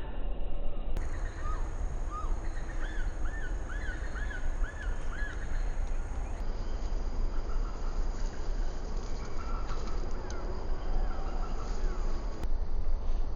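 Small birds calling: a quick run of about five short rising-and-falling chirps, then fainter scattered calls, over a loud, steady low rumble.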